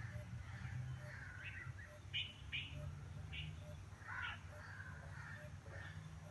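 Birds calling: a string of short chirps, several a second or so apart, over a low steady rumble.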